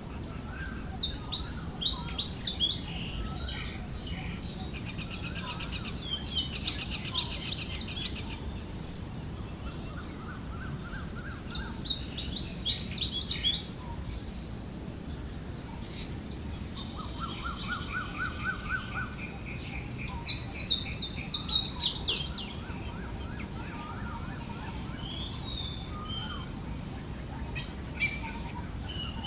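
Forest birds chirping and singing in short repeated trills and chirps, several at once, with the busiest bursts about a second in, around twelve seconds in and around twenty seconds in. Under them sit a steady high hiss and a low, even breeze noise.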